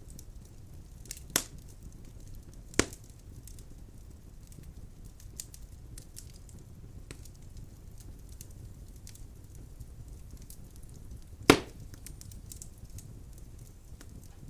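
Wood fire burning in a fireplace: a steady low rumble of flames with scattered faint crackles and three sharp pops of the burning logs, about a second in, near three seconds and the loudest near the end.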